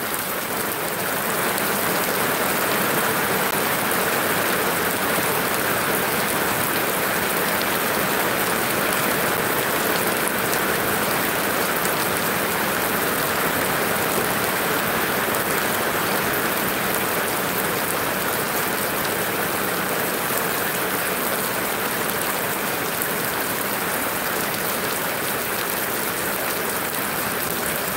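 Heavy rain falling steadily on metal-sheet roofs and a wet concrete lane, with water streaming off the roof eaves.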